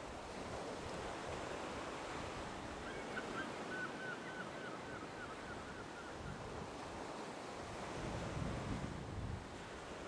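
Sea waves washing ashore, with wind buffeting the microphone in gusts that strengthen near the end.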